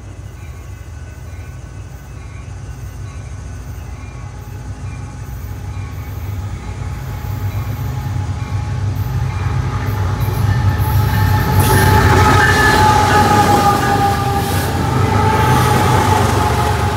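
Metra commuter train pulling into the station, its rumble growing steadily louder as it approaches. From about ten seconds in, a high, slightly wavering squeal joins it as the train slows.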